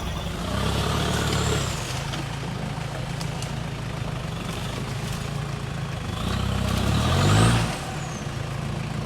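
Off-road vehicle engine running under load. It revs up briefly near the start, then revs harder about six seconds in, climbing in pitch to a peak before easing off.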